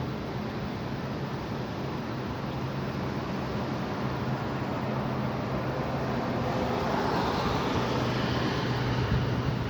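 High wind blowing: a steady rushing noise with a low hum beneath it, swelling louder about seven seconds in.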